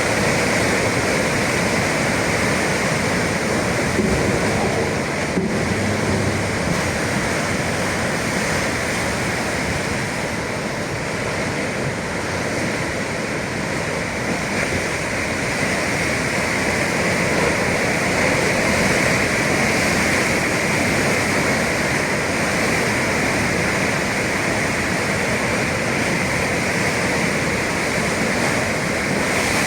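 Sea surf: waves breaking and washing in a steady, dense rush that swells and eases a little.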